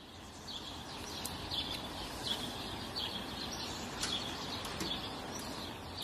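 Small birds chirping in short calls, about two a second, over a steady outdoor background hiss.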